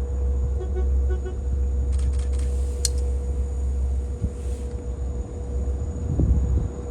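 Idling diesel locomotives: a steady low rumble with a steady mid-pitched whine, and a few sharp clicks about two to three seconds in.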